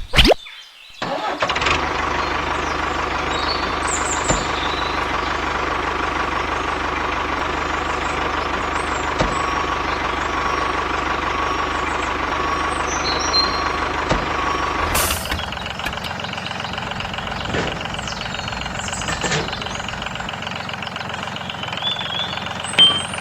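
Tractor engine running steadily, starting up about a second in and changing in tone about fifteen seconds in.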